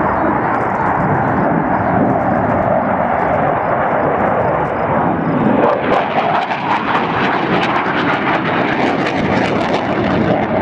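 Military jet aircraft flying past, a loud, steady rushing engine noise that gains a harsher crackle about halfway through.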